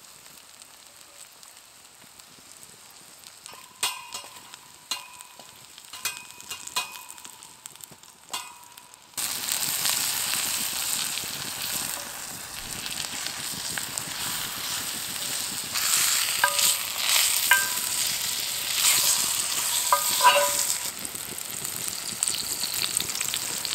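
Diced carrot, onion and garlic frying in oil in a cast iron Dutch oven, with a few short ringing clinks of a utensil on the pan. About nine seconds in the sizzle suddenly gets much louder as a flour-coated lamb shank goes into the hot oil, with more clinks as it is moved about.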